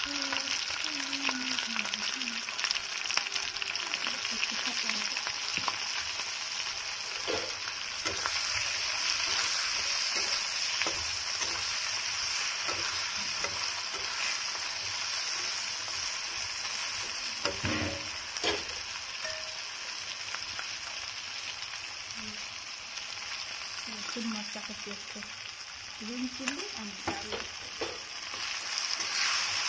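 Small paddy-field crabs frying in hot oil in an iron kadai, sizzling steadily, with a steel spatula now and then scraping and knocking against the pan as they are stirred.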